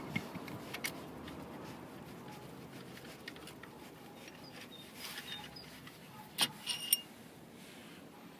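Small metal parts being handled with light clicks. About six and a half seconds in come two sharp, ringing clinks of metal on metal.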